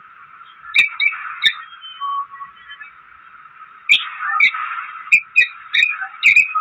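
Parrot calls: short chirps and squawks, a cluster about a second in, then a denser run from about four seconds on.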